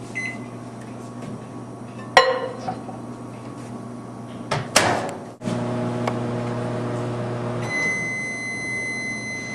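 Microwave oven being set and run: a short keypad beep, two clunks of the door or dish about two and five seconds in, then a steady hum of the oven running. The hum stops near the end and a long high beep sounds, the signal that the cooking cycle has finished.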